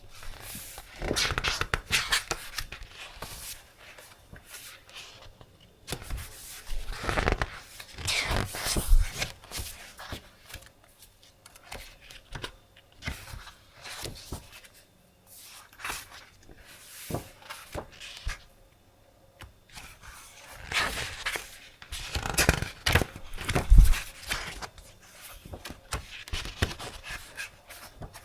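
Sheets of decorative paper being handled: irregular rustling and sliding of paper in bursts, with a thump late on.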